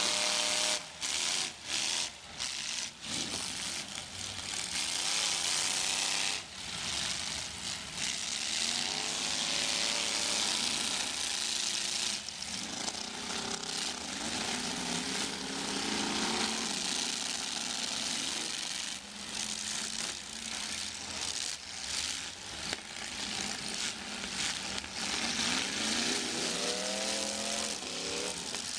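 Several demolition derby cars' engines revving hard, their pitch rising and falling again and again as the cars shove and ram one another, over a loud, dense roar of noise.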